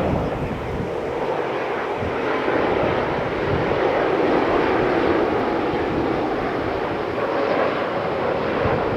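Jet airliner engines, a steady loud rushing noise.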